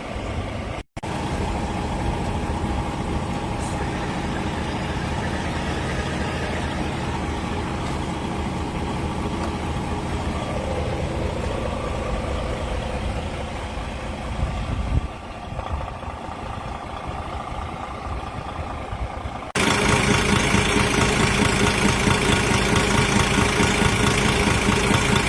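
DAF XF 480's PACCAR MX-13 diesel engine running at idle in several cut-together takes, with a steady low rumble. Near the end it turns abruptly louder and fuller.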